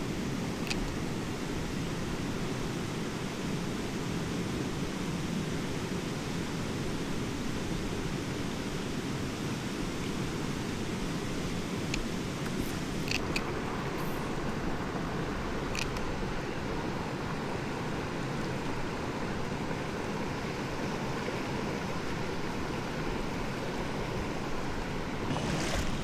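Steady rushing of a clear mountain stream, with a few faint ticks about halfway through.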